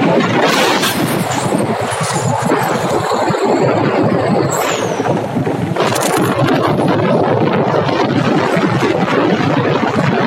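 Steady rushing noise of a motorcycle ride, with wind and road noise on the microphone. A few brief higher sounds pass by near the middle.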